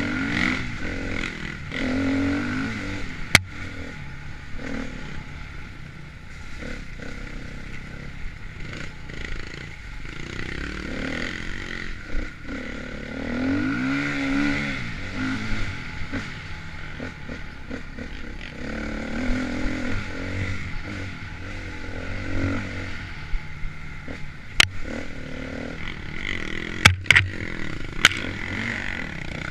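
Dirt bike engine revving up and down over and over as it is ridden along an enduro trail, with scraping and clattering. A few sharp knocks stand out, one a few seconds in and several near the end.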